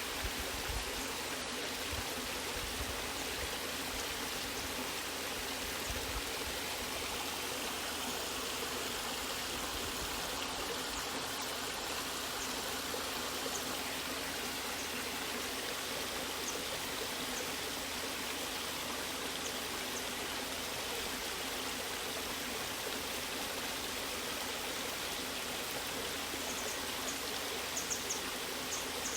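Waterfall and stream water rushing steadily, a continuous even hiss of falling and flowing water.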